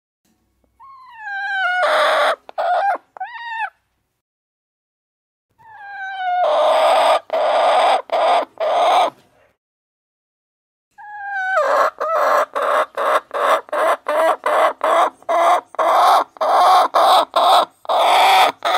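Chickens calling in three loud bouts with silence between them: each starts with a clear pitched call and breaks into harsh, rapid clucking, the last a long run of about three clucks a second.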